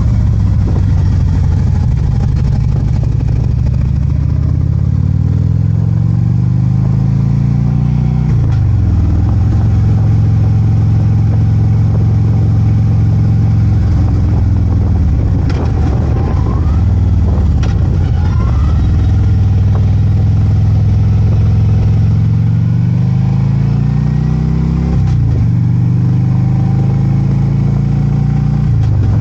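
Harley-Davidson Ultra Limited's V-twin engine pulling under way, its pitch climbing and then dropping sharply twice as it shifts up a gear. In the middle it falls away and picks up again as the bike slows and gets back on the throttle.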